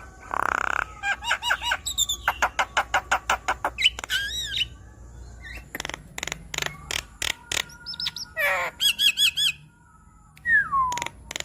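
Javan myna (jalak kebo) singing. A harsh squawk at the start gives way to rapid runs of sharp, repeated chirps and whistled notes, and a single falling whistle comes near the end.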